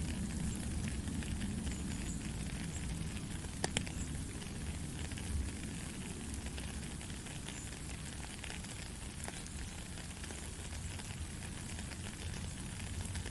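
Steady rain falling, a continuous hiss of drops with a low rumble beneath and scattered small ticks of individual drops, one sharper tick a little under four seconds in.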